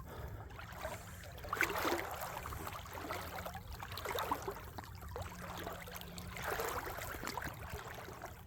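Slow wading steps through a shallow, rocky creek: water sloshing and splashing around the legs in a surge about every two and a half seconds, with small knocks of boots on stones.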